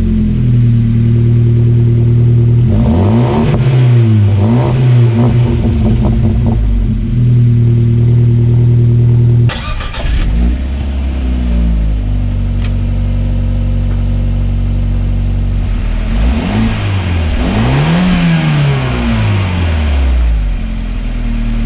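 Fiat 124 Spider's turbocharged four-cylinder engine running through an unresonated, near straight-pipe aftermarket exhaust. It idles steadily, is blipped a few times about three seconds in, and is revved up and back down near the end.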